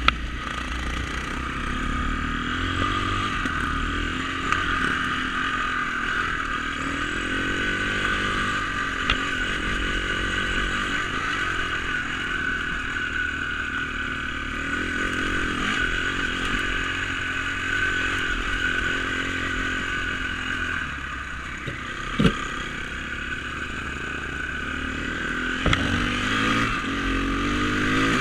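Dirt bike engine running while being ridden, its pitch rising and falling again and again with the throttle, with a few sharp knocks along the way.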